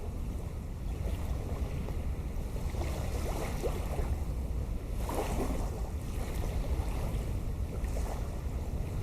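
Wind buffeting the microphone in a steady low rumble, with a few short crackles about three seconds in and again around five seconds.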